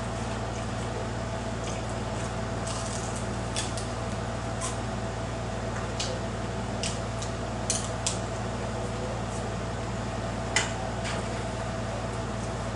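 Eating sounds at a table: scattered short clicks of utensils on dishes and food containers, and wet, squishy mouth sounds, over a steady low hum.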